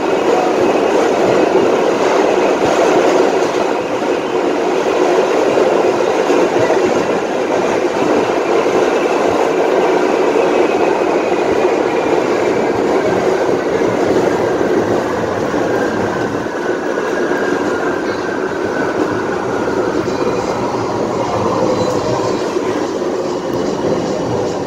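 Kawasaki R68A subway car's traction motors howling over steady wheel and track noise, the howl's several tones falling slowly in pitch through the second half as the train slows.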